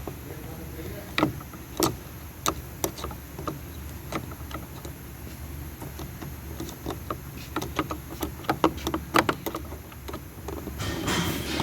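Irregular sharp clicks and light knocks of hand tools against metal and plastic door parts while a car door is being dismantled, over a steady low hum, with a short rustle near the end.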